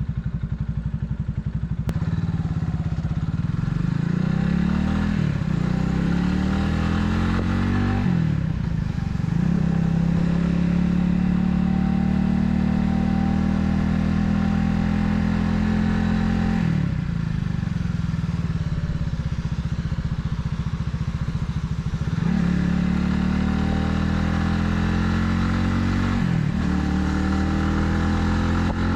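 Italika 250Z motorcycle engine pulling through the gears: the pitch climbs in each gear and drops back at each upshift, holds steady at cruise for several seconds, falls away about halfway through, then climbs through the gears again.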